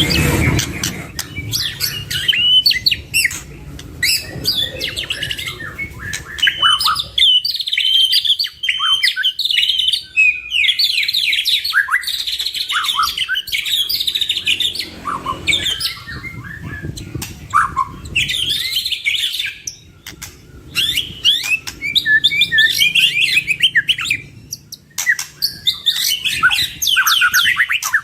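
White-rumped shama song: a varied stream of rapid whistles, trills and chattering phrases, broken by short pauses.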